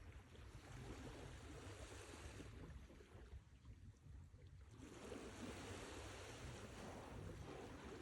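Sea waves washing on a shore, faint and hissing, easing off in the middle and surging in again about five seconds in.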